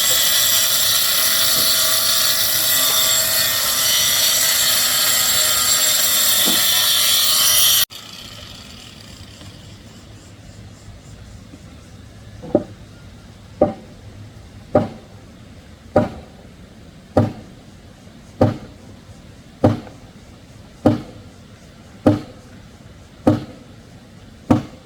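A power tool runs loud and steady, then cuts off suddenly about eight seconds in. After a few seconds, a series of evenly spaced blows on wood begins, about eleven strikes a little over a second apart.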